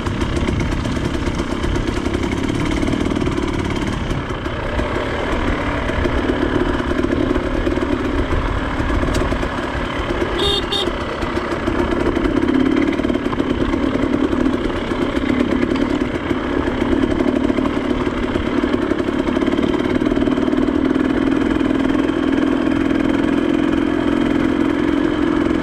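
Off-road motorcycle engine running steadily at low, even throttle while riding a rough lane, its pitch holding with small rises and dips, over low wind rumble on the microphone.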